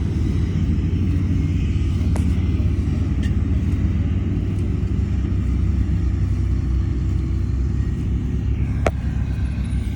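Heavy diesel earthmoving machinery running steadily with a deep engine rumble. Two short sharp clicks sound over it, one about two seconds in and one near the end.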